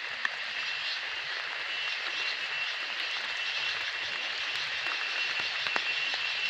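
Waterfall rushing, a steady even hiss with a constant high tone running through it and a few faint clicks.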